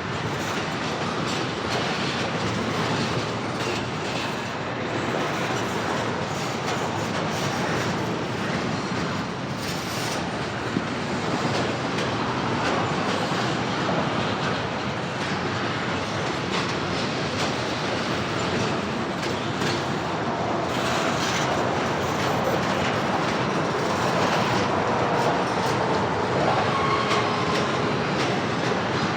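CSX freight train rolling past at steady speed, its cars clattering over the rail joints, with faint wheel squeal in the later part.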